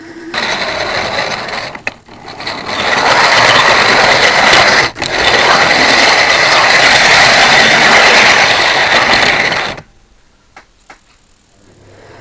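Model train running on the track, heard close from a microphone riding on a wagon: a loud, steady mechanical rattle and whirr that cuts off suddenly near the end, followed by a couple of faint clicks.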